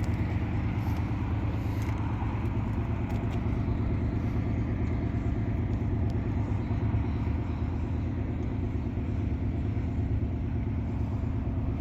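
A vehicle engine idling steadily: a low, even rumble that does not change.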